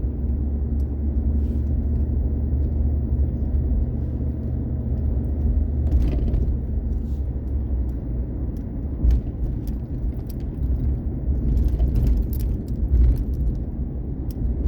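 Road noise inside a moving vehicle: a steady low rumble of engine and tyres, with short rattles and knocks from the vehicle going over a rough, potholed road, most of them about six seconds in and again near the end.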